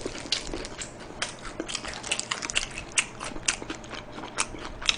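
Close-miked chewing of soy-glazed fried chicken: a run of irregular wet clicks and smacks, several a second.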